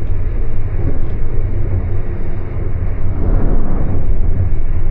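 Passenger train running, heard from inside the carriage as a steady low rumble.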